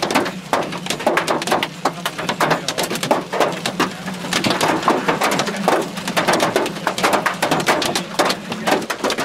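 Large hailstones pelting down, a dense, irregular run of hard knocks over a steady low hum.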